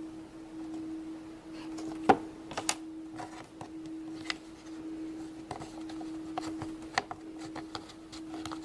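Scattered light clicks and taps of plastic toy mold and tools being handled while Play-Doh is worked, the sharpest about two seconds in, over a steady low hum.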